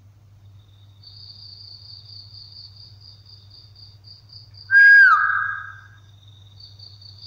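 Crickets chirping steadily in a fast pulsing trill. About five seconds in, one loud, short, whistle-like squeal that holds its pitch and then drops, fading within a second.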